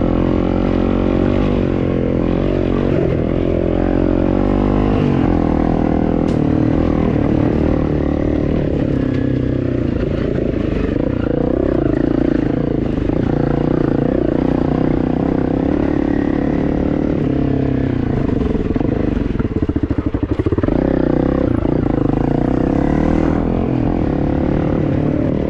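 Dirt bike engine running under changing throttle while riding off-road, its pitch rising and falling continually.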